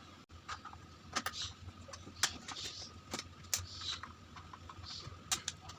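Irregular sharp clicks and short scrapes, about ten in all and spaced unevenly, of a home theater unit being handled and worked on, over a faint steady hum.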